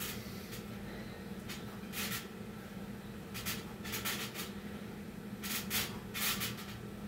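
A person doing Navy SEAL burpees, heard as several short hissing noises from hard breathing and from hands and feet scuffing the floor, coming at irregular intervals. A steady low hum runs underneath.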